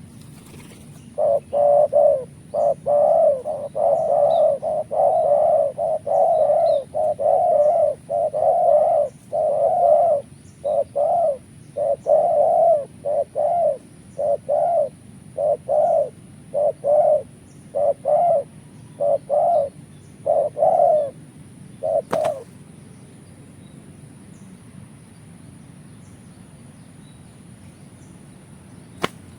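Spotted doves (tekukur) cooing, one low coo phrase after another almost without pause, stopping about twenty-two seconds in. A sharp click comes just as the cooing stops, and another near the end.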